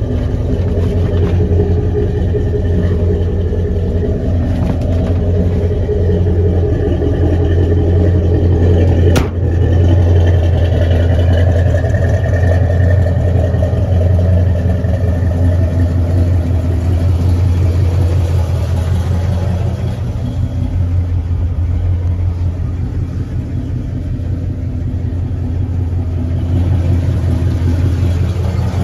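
1969 Chevrolet Chevelle SS 396's big-block V8 idling steadily. A single sharp click comes about nine seconds in.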